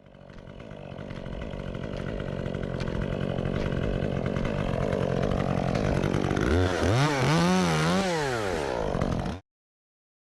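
Chainsaw engine running steadily as it fades in, then revving up and down a few times before it stops suddenly.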